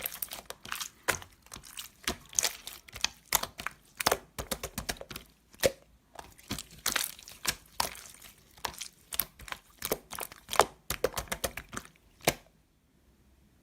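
Slime being squeezed and stretched by hand, giving a quick irregular run of crackling, popping clicks that stops about twelve seconds in.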